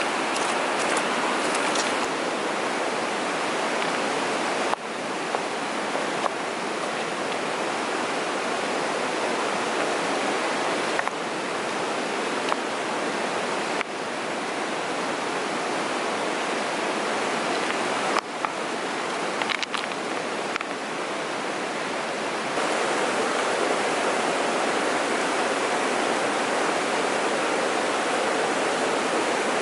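Rushing water of a mountain stream: a steady hiss of flowing water that shifts abruptly in level and tone several times.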